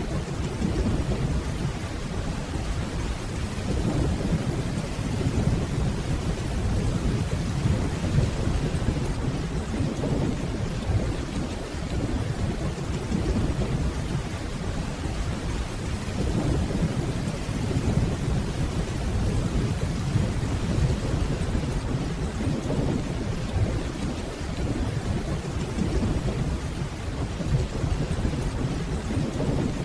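Steady rainfall with low, distant rolling thunder that swells and eases without any sharp cracks.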